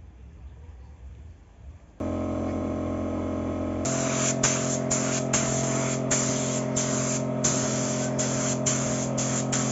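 A paint-spraying motor starts humming steadily about two seconds in. From about four seconds paint spray hisses in repeated bursts with brief breaks between them, over the hum.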